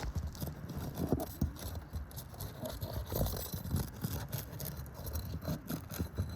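Snake shingle repair tool working under an asphalt roof shingle, in short, irregular scraping and rasping strokes with small knocks, to free the shingle.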